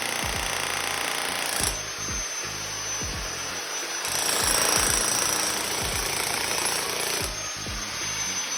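A power tool running hard on building work, with background music over it. The sound changes abruptly about a third of the way in, near the middle and near the end.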